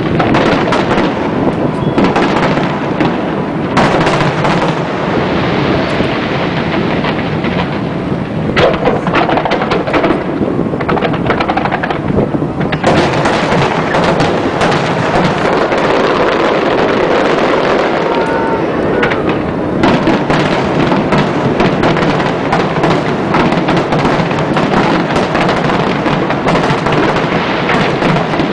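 Fireworks display: aerial shells bursting loudly in a dense, nearly unbroken barrage of booms and many rapid cracks.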